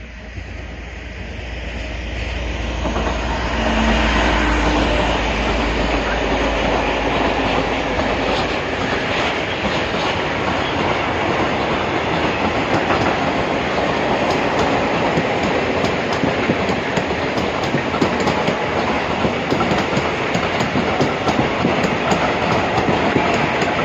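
A Voith Maxima 40CC diesel-hydraulic locomotive approaches and passes, its engine giving a heavy low hum for the first several seconds. A long train of open coal wagons then rolls by, its wheels clattering steadily over the rail joints.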